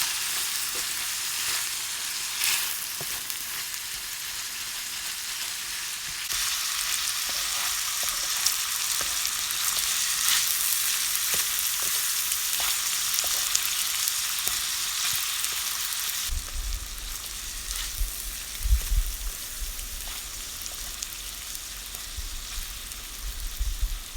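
Food sizzling and frying in a pan over a campfire, a steady hiss. The hiss gets louder about a quarter of the way in and softer about two-thirds in, where low rumbles and a few knocks come through.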